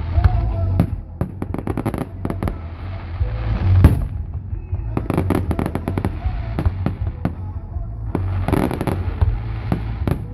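Fireworks display: repeated bangs of aerial shells and clusters of rapid crackling, with the loudest bang about four seconds in, over a steady low rumble.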